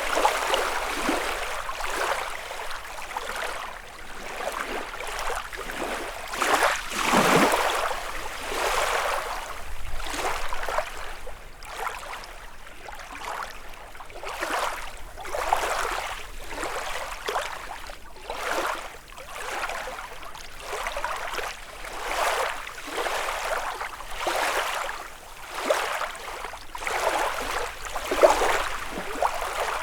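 Small lake waves lapping and splashing against the shore in quick, irregular washes, one following another every second or two.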